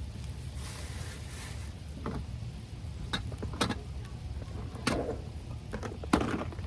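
Cooking gear being handled: five light clicks and knocks, spaced out, over a low steady hum.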